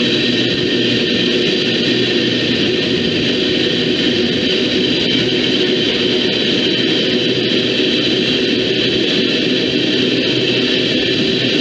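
Train passing, its wheels on the rails making a steady, unchanging din.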